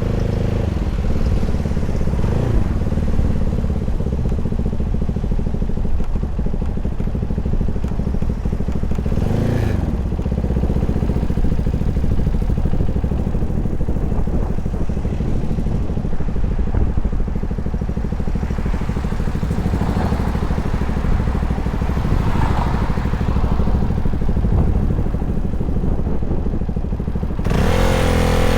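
CFMoto 300SR motorcycle's single-cylinder engine running steadily, with brief rises and falls in pitch. Near the end it gets louder and its pitch rises as it revs.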